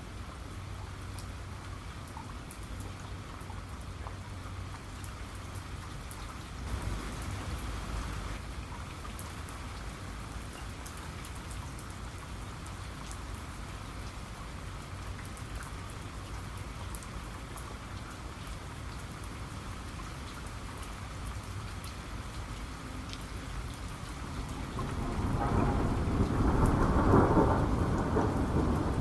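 Steady heavy rain pattering, with scattered close drops. A brief low rumble comes about seven seconds in, and near the end a loud rolling peal of thunder builds and peaks.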